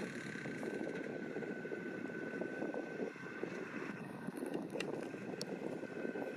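Massey Ferguson 7620 tractor's six-cylinder diesel running steadily while pulling a McHale V660 round baler baling hay, with a steady thin whine over the engine and two brief ticks about five seconds in.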